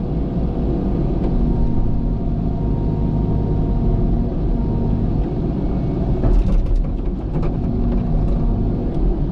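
Cat excavator's diesel engine running steadily under load while digging, with a cluster of knocks and scrapes about six seconds in as the bucket works at rocks.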